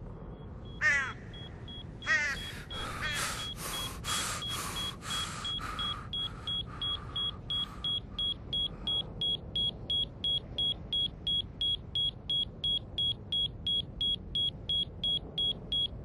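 Time-bomb sound effect: a high-pitched electronic beep repeating evenly, about three times a second, counting down on the armed bomb. It takes over about six seconds in, after two short chirpy bursts near the start and a run of louder rapid pulses.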